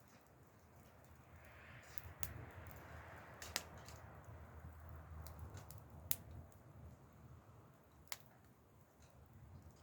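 Wood campfire crackling faintly, with a few sharp pops scattered through and a soft hiss that swells a couple of seconds in and fades again.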